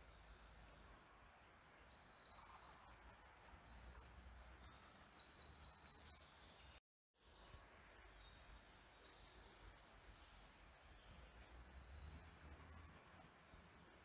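Faint birdsong: a small songbird's fast trilled phrases, several a few seconds in and again near the end, over a faint steady hiss. The sound cuts out completely for a split second about seven seconds in.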